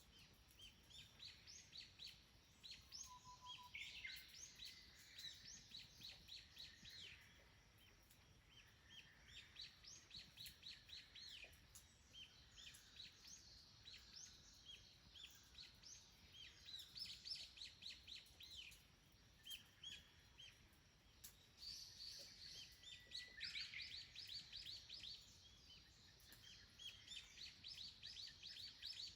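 Small wild birds chirping in repeated quick runs of high notes, each run lasting a second or two, with short pauses between them.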